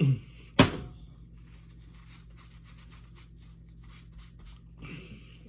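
Mukbang eating and handling of fast food: a brief low vocal sound, then a single sharp click about half a second in, followed by faint soft rustles and small clicks. Another short vocal sound comes near the end.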